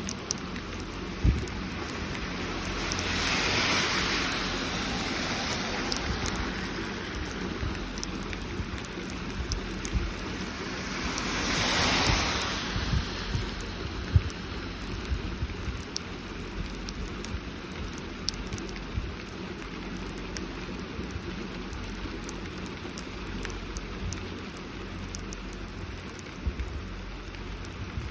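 Heavy rain falling steadily, a dense even hiss with scattered sharp ticks. The hiss swells louder twice, about three seconds in and again about twelve seconds in.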